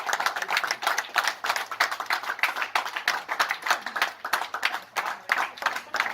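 A gathering of people clapping their hands: many irregular, overlapping claps without a steady rhythm.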